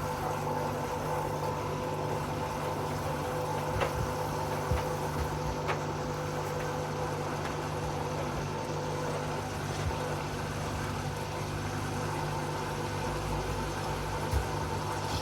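Hoover inverter washing machine running mid-cycle: a steady low hum with a steady whine over it and a couple of faint clicks.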